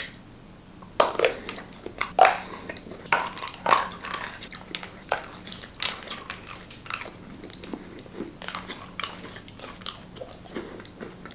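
Close-miked biting and chewing of Kinder chocolate: irregular sharp snaps and clicks, starting about a second in, with softer mouth sounds between them.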